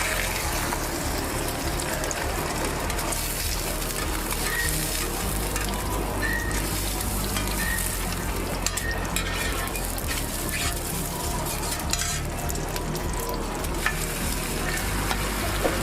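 Food sizzling steadily in hot oil on a griddle or pan, with a few sharp clicks of utensils in the second half.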